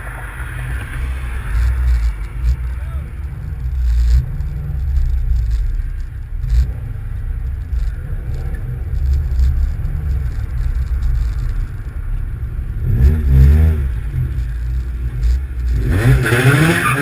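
A car driving, heard from a dashcam: steady low engine and road rumble, with a wavering pitched sound that bends up and down briefly about three-quarters of the way through and again near the end.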